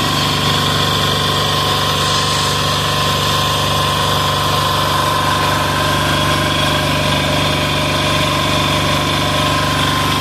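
186FA single-cylinder air-cooled diesel engine running at a steady speed, burning hydraulic jack oil as fuel.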